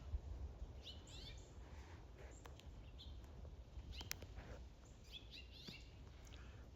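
Small wild birds chirping faintly: scattered short, high chirps, a few in quick clusters, over a low background rumble.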